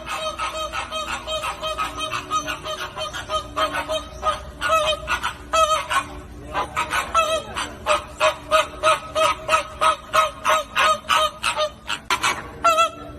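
A flock of flamingos honking: short, goose-like calls overlap in a steady, rapid chorus of several calls a second, with a louder cluster of calls near the end.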